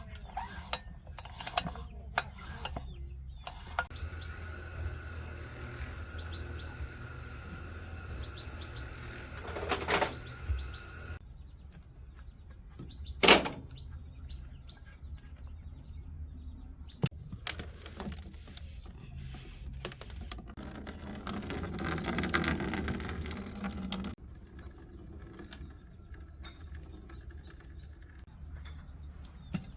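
Small metal engine parts and hand tools being handled: scattered clicks and knocks, one sharp knock about halfway through, and a few seconds of rougher noise later on.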